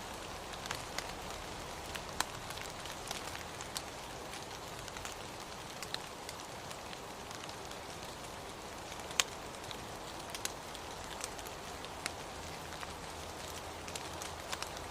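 Steady rain with scattered sharper drops ticking irregularly on a nearby surface, one louder drip about nine seconds in.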